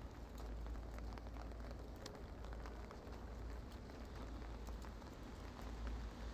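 Rain falling steadily, many small drops ticking on a hard surface over an even hiss, with a low rumble underneath.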